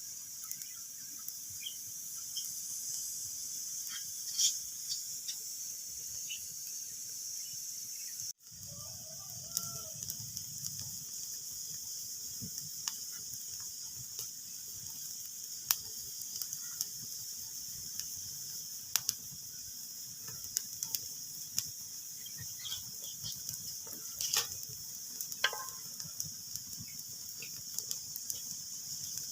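Wood fire crackling in a fireplace: a steady hiss with irregular sharp pops and snaps, a few of them louder. The sound drops out for an instant about eight seconds in.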